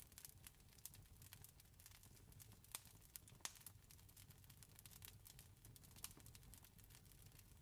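Wood fire crackling, with a stream of small irregular pops and snaps over a low steady rumble. Two sharper pops stand out a little under three seconds and about three and a half seconds in.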